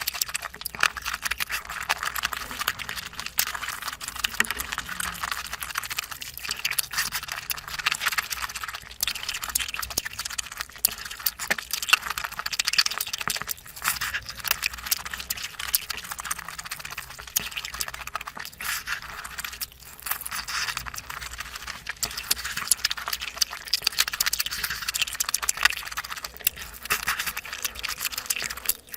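Close-miked eating sounds: a continuous stream of wet chewing, mouth clicks and smacking as large mouthfuls of curry and rice are eaten, with a few brief pauses.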